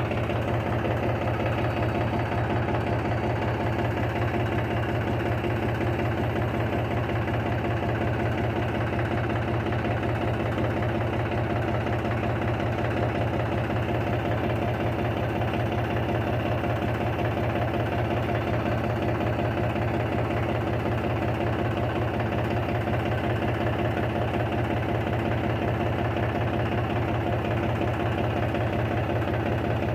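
Tractor engine running steadily at an even, unchanging speed, with a rapid regular chugging pulse.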